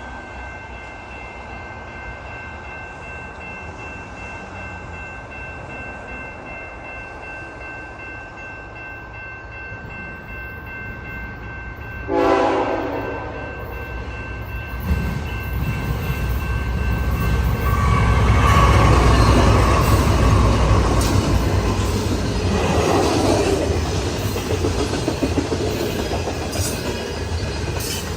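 Freight train horn blowing a short blast about twelve seconds in. Then CN ET44AC diesel locomotives rumble past, loudest just before the middle of the second half. The grain cars follow, clicking rhythmically over the rail joints.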